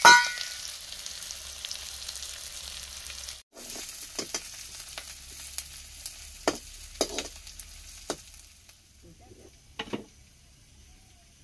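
Onions sizzling in hot oil in an iron kadai, with a metal spoon scraping and clicking against the pan as they are stirred. A ringing metal clang comes right at the start, and the sizzle fades away about three-quarters of the way through.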